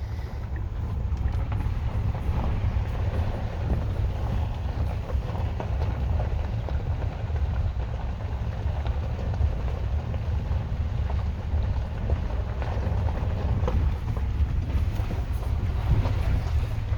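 Low, steady rumble of the electric Tesla Cybertruck rolling over rough ground, with scattered small clicks and knocks.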